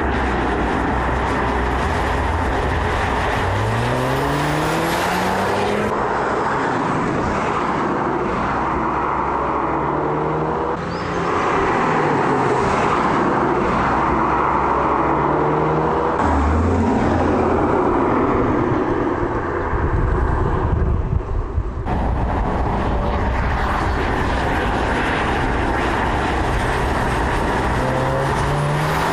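Audi TTS's 2.0-litre turbocharged four-cylinder petrol engine accelerating, its pitch rising several times over steady road and wind noise.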